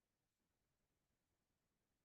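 Near silence: the faintest low hiss, with no distinct sound.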